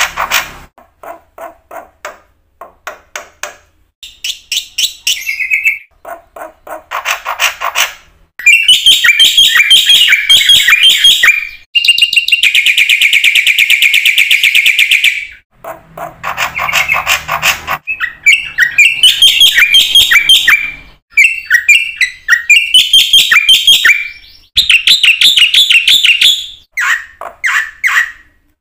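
Black-winged myna (jalak putih) singing hard: loud bouts of rapid repeated notes and chattering trills broken by short pauses, with one long, very fast buzzing trill in the middle.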